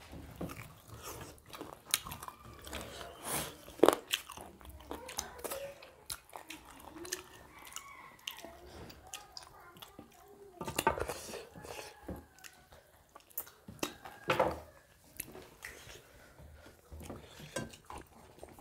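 Close-up mouth sounds of eating chicken spinach curry and rice by hand: chewing and lip-smacking, with scattered sharp clicks and smacks.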